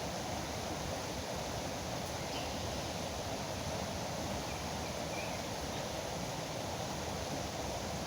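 Steady rushing of a foaming river, with a few faint bird chirps about two and a half and five seconds in.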